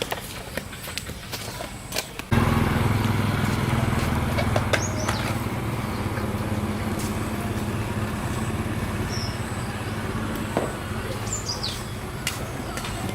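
An engine or motor starts abruptly about two seconds in and runs steadily with a low, even hum. A few bird chirps sound over it.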